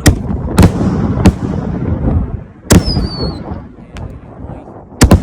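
Aerial firework shells bursting: about six sharp, loud reports, with an echoing rumble between them. Two close together end it. A falling whistle follows the report about three seconds in.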